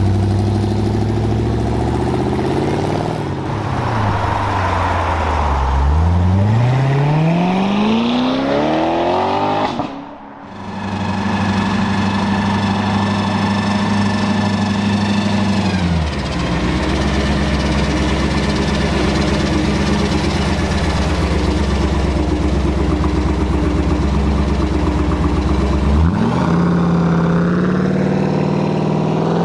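V8 car engines running: one idles, its pitch dips and then rises steadily for several seconds as it revs up. After a sudden break about ten seconds in, engines idle steadily, with a short rise in revs near the end.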